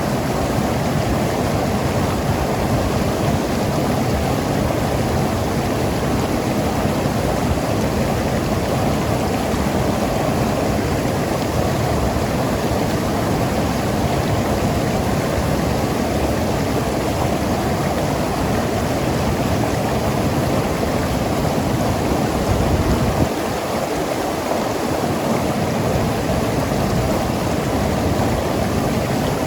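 Mountain river flowing and tumbling over rocks: a steady, full rush of water with gurgling. The deep rumble thins briefly near the end.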